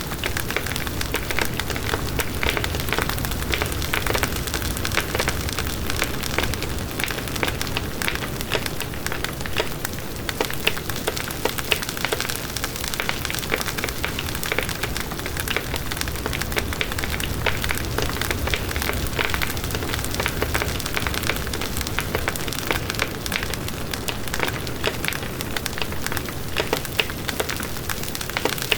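Campfire burning, wood crackling and popping in a dense, irregular patter over a steady low rush.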